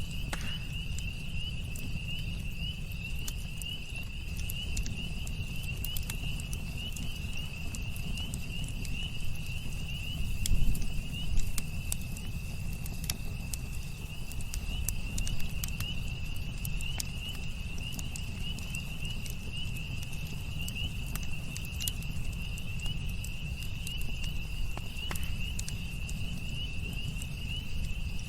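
Campfire crackling with scattered sharp pops and a low rumble underneath, a few louder pops about ten to twelve seconds in. A steady high trill of crickets runs behind it.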